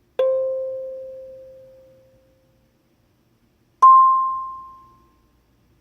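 Two single notes plucked on a Yubbax K17M kalimba. A lower note rings and fades over about two seconds. A higher note, plucked a few seconds later, dies away in just over a second.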